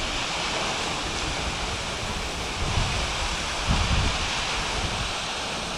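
A steady rush of running water, with a few low wind buffets on the microphone.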